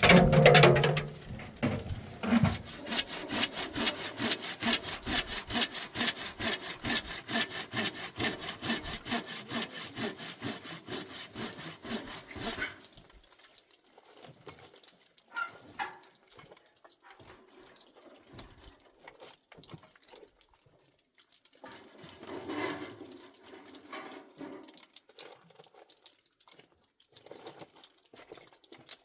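Wood being cut with a hand saw in fast, even back-and-forth strokes for about ten seconds, then stopping. Quieter scattered knocks and rustles follow, with a short burst of activity near the end.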